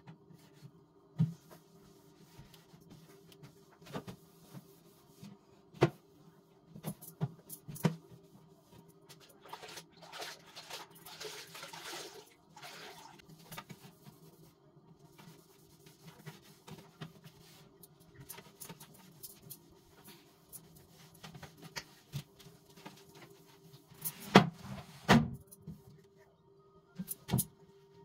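Household cleaning and tidying sounds: scattered knocks and clunks of things being handled and set down, with a loud pair of knocks near the end, and a few seconds of hissing, rushing noise around the middle, over a steady low hum.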